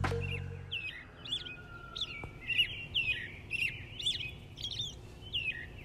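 Small birds chirping: a quick run of short, sharp chirps, about two a second, as a morning ambience. The tail of low background music fades out in the first second.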